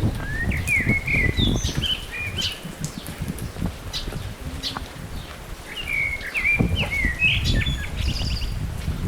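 A songbird sings two quick phrases of chirping, warbling notes, one at the start and one past the middle. Under them runs a low rumble with irregular thumps.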